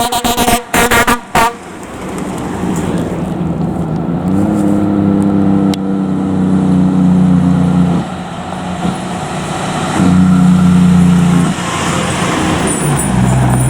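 Fire truck air horns blowing: a quick run of short blasts at the start, then long held blasts that start and stop abruptly, over steady vehicle noise.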